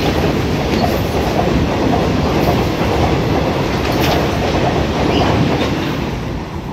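Long goods train of open box wagons passing close by at speed: a steady rumble with the clickety-clack of wheels over rail joints, easing off near the end as the guard's brake van goes by.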